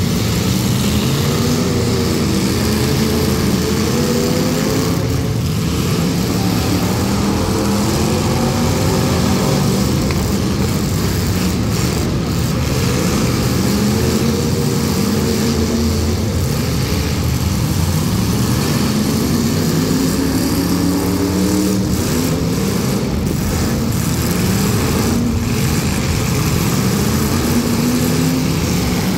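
The engines of several demolition derby cars revving hard together, their pitches rising and falling and overlapping as the cars drive and ram each other.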